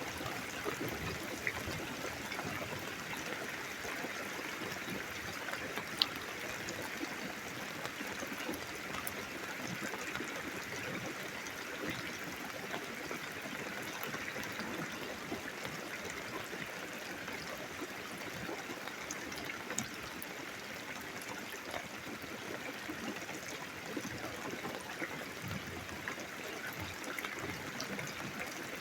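Steady storm rain with water trickling and running, a continuous even hiss. One sharp click about six seconds in.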